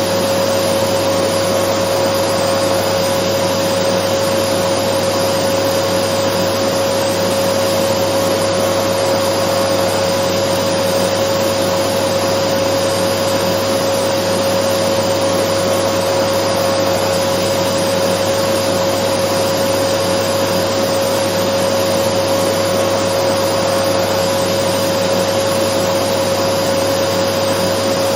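Dyson vacuum cleaner running steadily: an even rush of air with a constant motor whine, unchanging throughout.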